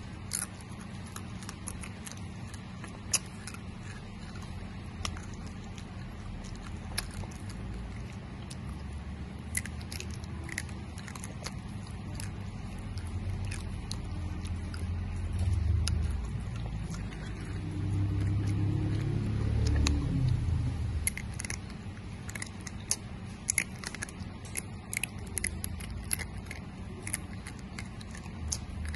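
Close-miked chewing of dried banana: scattered sharp wet mouth clicks and smacks. A low rumble swells in the middle and fades away over several seconds.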